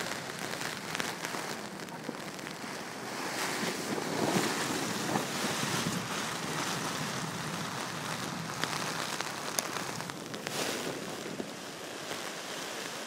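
Storm wind and rain buffeting a tent: a continuous rushing noise that swells in gusts, with scattered sharp taps and snaps.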